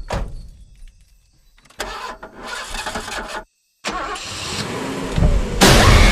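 Film trailer sound effects: a sharp hit, then a rumbling, engine-like noise that cuts to total silence for a moment about halfway through and then swells steadily to loud.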